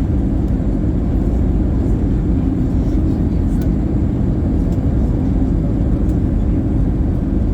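Steady low engine and airflow noise inside the cabin of an Airbus A320 airliner in flight on approach.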